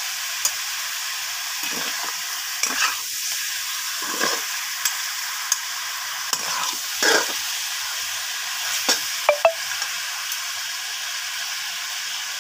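Chicken pieces sizzling in hot oil in a black wok, with a steady frying hiss. A flat metal spatula stirs and scrapes them against the pan about seven times, with a couple of quick clinks near the end.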